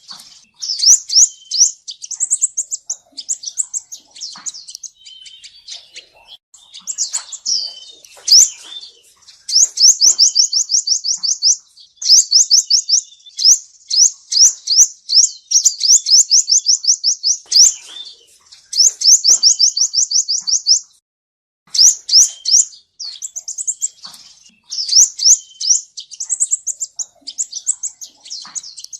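Male sunbird singing: high, fast trills of quickly repeated notes in runs of a second or two, with brief gaps, a break just past the middle, and scattered chips between runs. It is a lure recording of the male's song, used to draw sunbirds into a trap.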